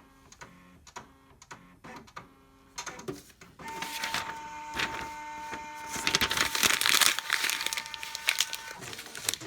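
HP 3330 multifunction printer working through a copy: a row of evenly spaced clicks and short motor pulses for about three seconds, then its mechanism runs with a steady whine and rattling, loudest past the middle, and stops shortly before the end. The copy running shows the stuck 'Scanner Bulb Warming Up' state has cleared.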